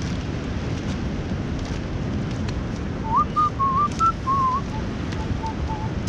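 A person whistling a short wavering tune, starting about three seconds in, with a few softer notes near the end, over a steady low rush of wind on the microphone.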